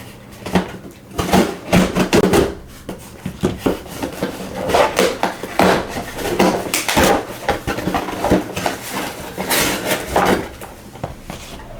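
A cardboard parcel being opened with scissors and unpacked by hand: an irregular run of scraping, rustling and clattering of packaging and small products.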